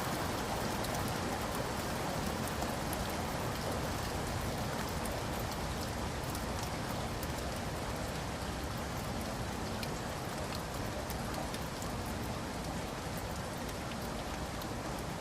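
Steady rain falling, an even dense hiss with scattered ticks of individual drops, easing slightly in loudness.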